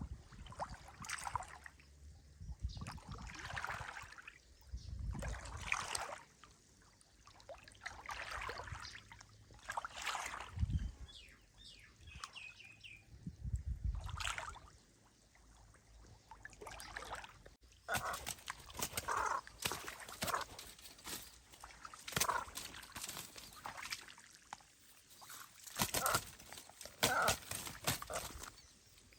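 Water trickling and sloshing in irregular bursts, with scattered clicks and short squeaky notes in the second half.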